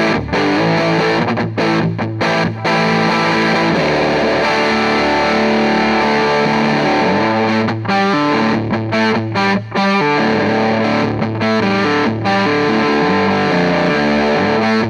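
Distorted electric guitar played through an EarthQuaker Devices White Light overdrive pedal into a Hughes & Kettner Tubemeister Deluxe 20 amp head, playing a rock riff. It plays short stop-start chords, with a longer stretch of held chords in the middle.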